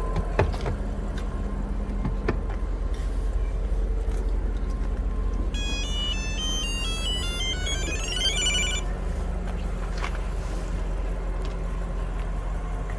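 Audi RS7's twin-turbo V8 idling steadily after a remote start. About halfway through, a short electronic beeping melody plays for about three seconds and ends in a quick rising run of tones. There are a couple of sharp clicks near the start.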